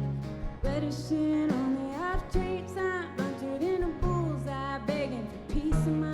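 Live alt-country band playing, with a woman's sung melody over guitars, bass and a steady drum beat.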